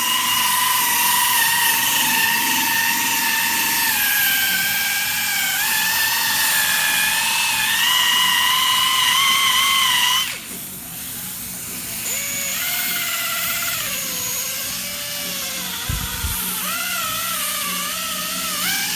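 Electric rotary buffer polishing a plastic headlight lens, its motor whining and wavering in pitch under load. About ten seconds in the whine drops sharply and runs slower and quieter, rising and falling as the speed is eased back at the lens's tight edges, with a short low thump near the end.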